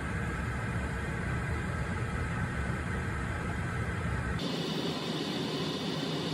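Steady vehicle rumble and road noise, heavy in the low end, that cuts off abruptly about four seconds in and gives way to a thinner, hissier traffic noise.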